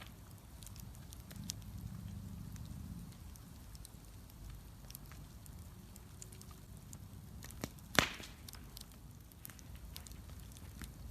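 Wood bonfire crackling, with scattered small snaps and one loud sharp pop about eight seconds in, over a low rumble.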